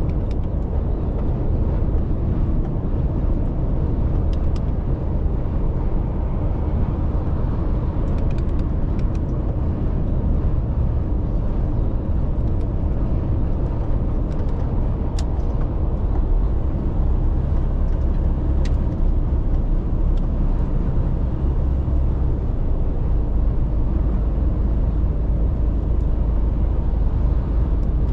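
Mercedes-Benz Actros truck driving at a steady pace: the diesel engine and tyre and road noise make a continuous low rumble.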